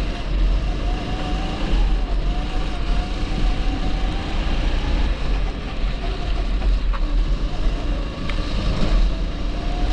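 TB rental kart's 270cc engine running on track, its pitch wavering slightly up and down as the throttle changes, over a heavy low rumble.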